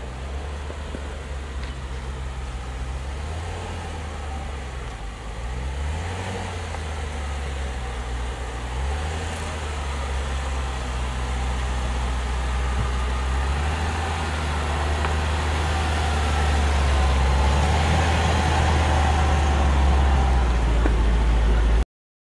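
2013 Range Rover engine running at low speed as the vehicle crawls over rock. The revs rise and fall a few times, the sound grows steadily louder toward the end, then cuts off abruptly.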